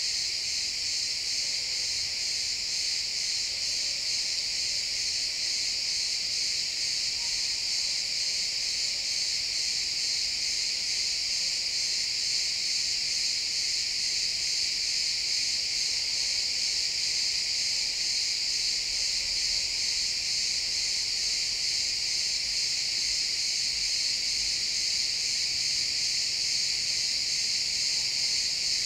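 Chorus of many crickets chirping together in a pine forest, a steady high-pitched trilling wall of sound that doesn't let up.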